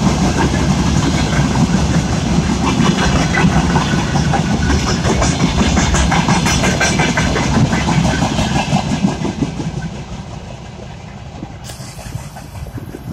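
Freight wagons of a mixed freight train rolling past on steel rails, the wheels clattering steadily. The noise falls away from about ten seconds in as the end of the train passes and moves off.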